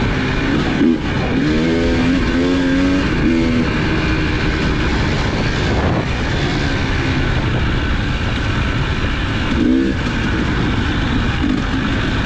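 Off-road vehicle engine running under way with wind and dust rush on the microphone, the engine note briefly rising and falling a few times.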